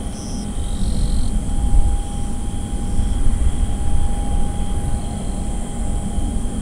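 Boeing 777-200 jet engines running, a low rumble that swells and ebbs with a steady whine over it, with a steady high buzz of insects alongside.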